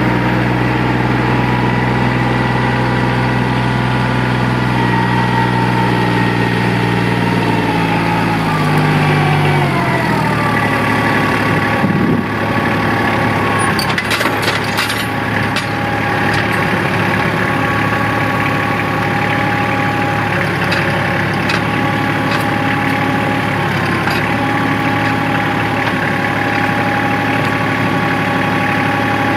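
Kubota L3010 tractor's diesel engine running at idle, then speeding up about a third of the way in and holding steady at the higher engine speed. A few short clicks and knocks come about halfway through.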